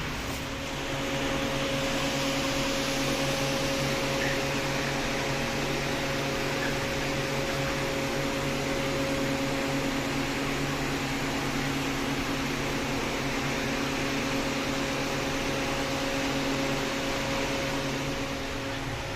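Steady machine hum: an even rushing noise with a low drone held on a few steady pitches, growing a little louder about a second in.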